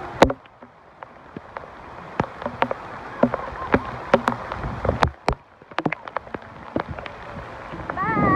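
Heavy rain, with raindrops striking close to the microphone as many irregular sharp taps over a steady hiss of falling rain.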